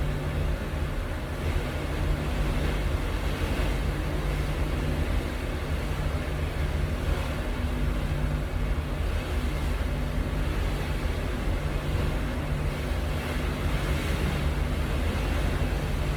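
Wind buffeting the microphone on the open deck of a moving cruise ship, a steady rumble with a constant low hum underneath.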